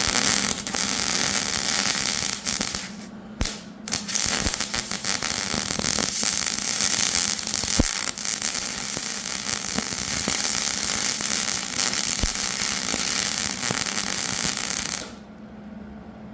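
Electric welding arc crackling and sputtering as dents in a mild-steel plate are welded up, the weld dirty from lead and copper left in the dents. It breaks off briefly a few seconds in, starts again, and cuts off near the end, leaving a steady low hum.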